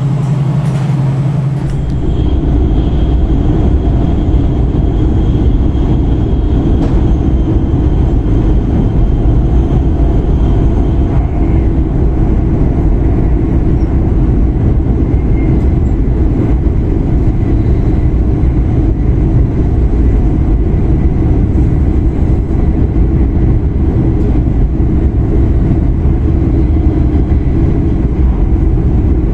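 Cabin noise of an E5 series Shinkansen running at speed on the Tohoku Shinkansen line: a steady, loud, low rumble, heard from inside the passenger car.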